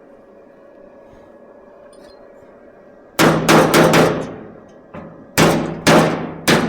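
A series of sharp hammer strikes on the steel fender and its patch panel, each ringing briefly: four quick blows about three seconds in, a short pause, then three more near the end.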